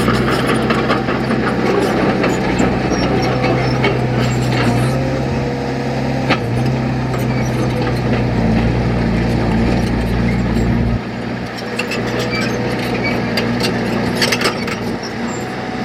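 Diesel engine of heavy earthmoving machinery running steadily, with scattered sharp clanks and knocks. The deep rumble drops away about eleven seconds in.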